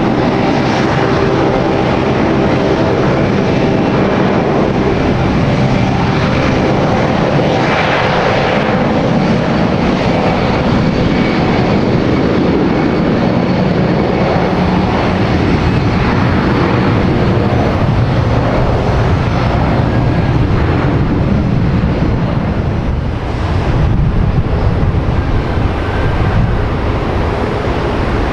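Airliner engines running loud and steady, with a layer of steady tones over the first several seconds that fades out.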